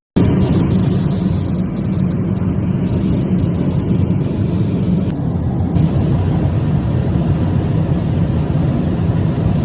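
Loud, steady roar of rushing air and engine noise inside the cabin of a depressurized Boeing 737-9 MAX in flight, with a hole in the fuselage where a door plug has blown out.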